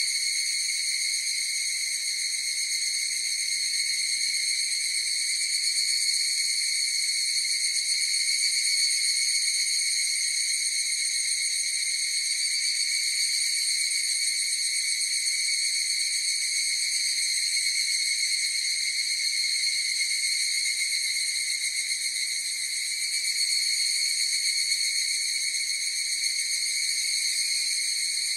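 Continuous chorus of singing insects: a steady, high-pitched, unbroken drone with overtones, even in level throughout.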